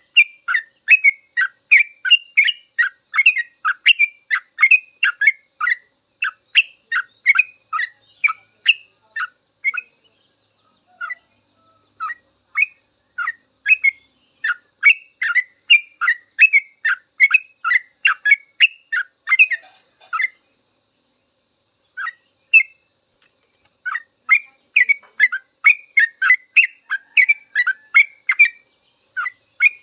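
Trucuk (yellow-vented bulbul) singing a long, fast run of short chirpy notes, about three a second. The song breaks off twice briefly, about a third and two-thirds of the way through.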